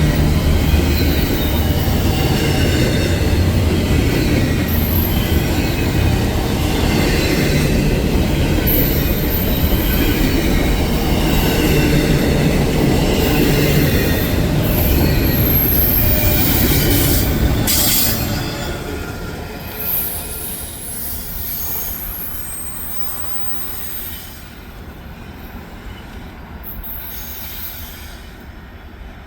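Train rolling past with its wheels squealing on the rails. It is loud for about eighteen seconds, then fades away.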